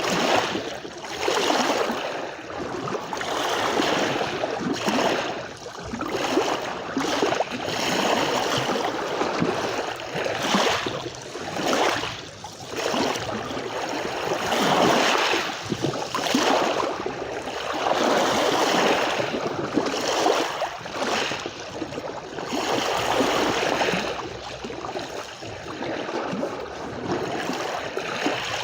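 Small sea waves washing and lapping at the shore: a continuous rush of water that swells and eases every second or two.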